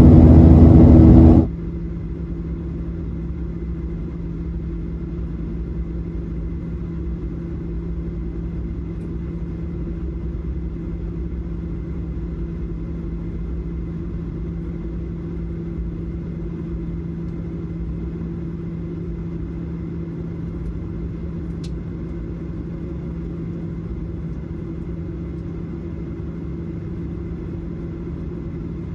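A loud rush of noise cuts off abruptly about a second and a half in. It gives way to the steady cabin drone of a Boeing 737-700 in flight, a low rumble with an even hum under it.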